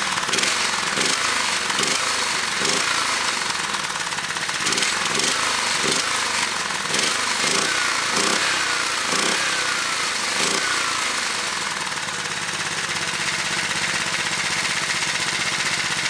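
A hopped-up Honda single-cylinder small engine with a race cam, running without a governor, revved in repeated quick throttle blips that fall back each time, then settling to a steady idle about twelve seconds in.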